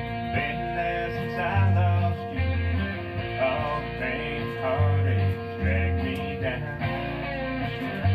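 Country-rock band playing an instrumental break: a lead guitar plays bending, sliding notes over held bass notes and rhythm guitar, with no vocals.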